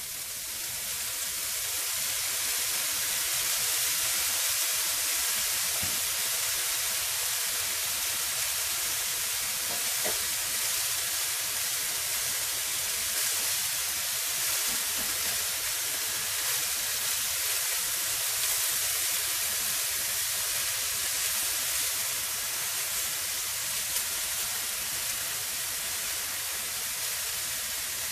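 Mung bean sprouts sizzling in a hot nonstick frying pan with fresh soy sauce, stirred with a spatula. A steady sizzle that swells over the first few seconds and then holds.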